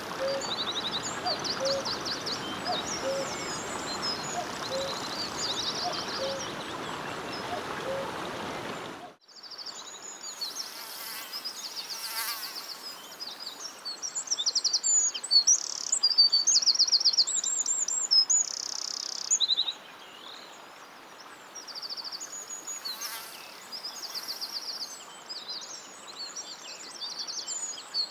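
Several songbirds singing, with repeated high trills and chirps. For the first nine seconds a steady rushing noise and a low short note repeated about once a second lie under the song; both cut off abruptly, and the birds go on over a quieter background.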